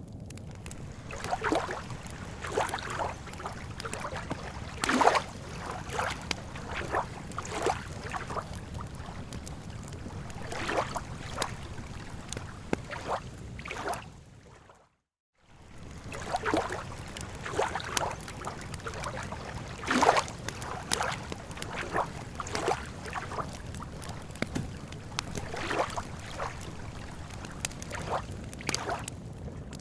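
Campfire crackling, sharp irregular pops of burning wood over a steady low wash of lake water lapping. About halfway through, the sound fades out to silence for around a second, then comes back.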